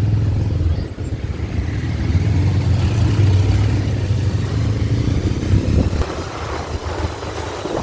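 Motorcycle running while being ridden in road traffic, a steady low engine rumble that eases off a little near the end.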